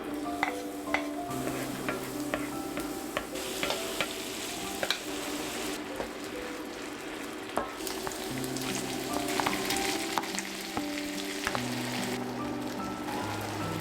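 Food sizzling in a hot pan while being stirred, with scattered sharp clicks of a utensil against the pan. Soft background music with held notes plays under it.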